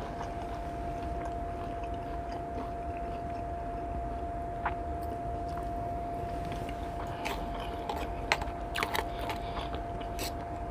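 A person chewing and biting food close to the microphone, with a few sharp crunches or clicks in the second half. A thin steady tone hums underneath.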